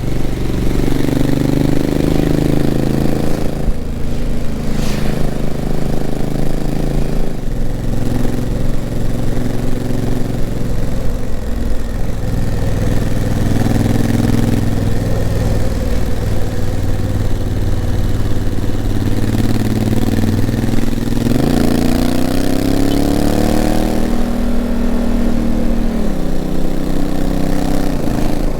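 Honda CRF1000L Africa Twin's 998 cc parallel-twin engine running under way, with the engine note changing in steps as the DCT gearbox shifts. About three quarters of the way in the revs rise as it accelerates, then the note drops again near the end.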